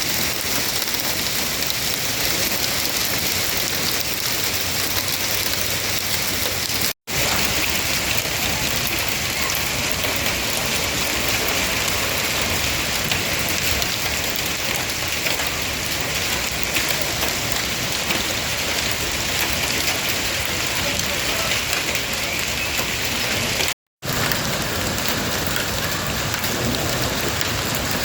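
Heavy rain falling steadily and pattering on hard surfaces. The sound drops out completely for an instant twice, about seven seconds in and near the end.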